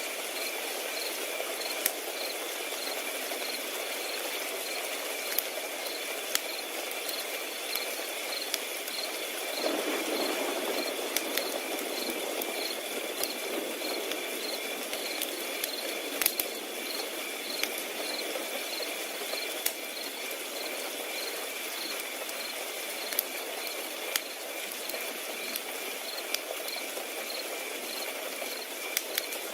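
Crickets chirping in a steady, evenly pulsing high trill, over a crackling wood fire. The fire gives off scattered sharp pops and a soft hiss that swells slightly about ten seconds in.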